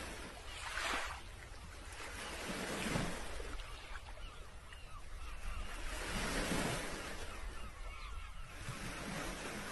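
Sea waves washing in slow surges, with wind rumbling on the microphone.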